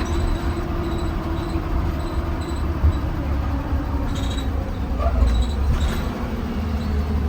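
2020 Blue Bird Vision school bus driving, heard from inside the cabin near the front: a steady low engine and road rumble with faint high ticks.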